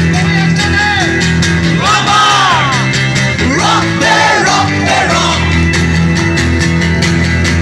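Live unplugged rock song: voices singing in long sliding phrases over steady held chords from the accompaniment.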